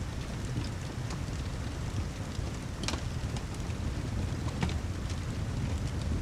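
Steady rain ambience with a low rumble, over a fireplace crackling with scattered sharp pops, the loudest about three seconds in.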